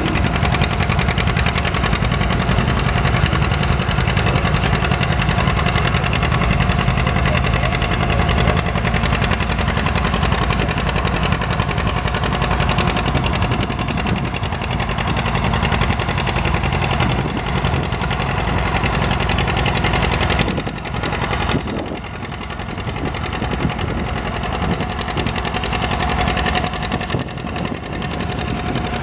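Antique farm tractor's engine running hard and loud under load, with a pulsing exhaust. It drops off briefly about two-thirds of the way through, then picks up again.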